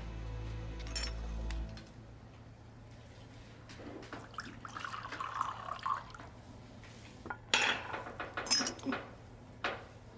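Low background music that stops about two seconds in. After it, glassware and cups clink and are set down, with liquid being poured as a drink is served.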